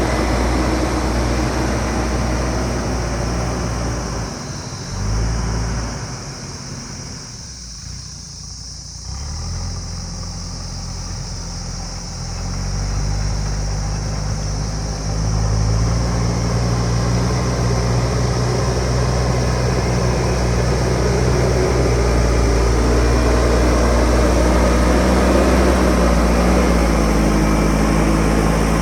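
Diesel engine of a JCB backhoe loader running. It eases off for a few seconds early on, then about halfway through picks up to a higher, louder, steady pitch as the machine works.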